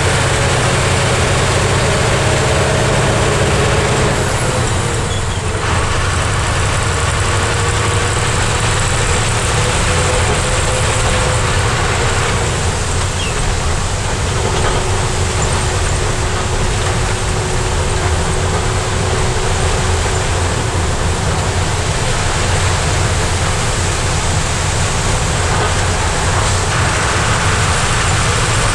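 Heavy truck's diesel engine running steadily under way, with road and tyre noise.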